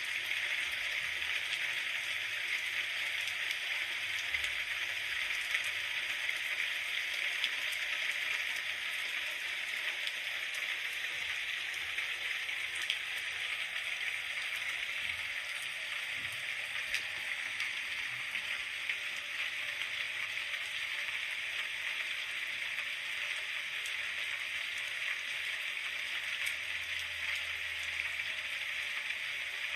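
Steady rain falling, an even hiss of many fine drops with scattered small ticks.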